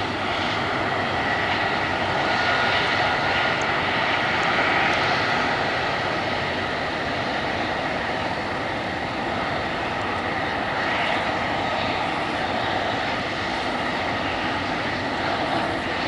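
Airbus A330-300 twin turbofan engines running at taxi power: a steady jet whine with a few held high tones over a broad rumble.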